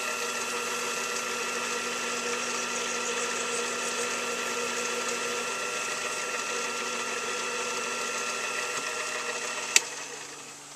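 A machine tool running steadily with a whine while a 1/4-inch reamer cuts a bore, then switched off with a click near the end and spinning down.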